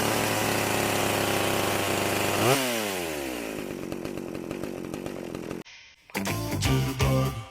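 Chainsaw sound effect: the motor revs up, runs at a steady pitch, surges once about two and a half seconds in, then winds down with falling pitch. A different short sound follows near the end.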